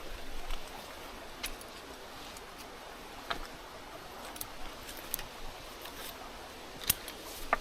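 A mountain stream running steadily, with a handful of short, sharp clicks and clinks scattered through it, the loudest near the end.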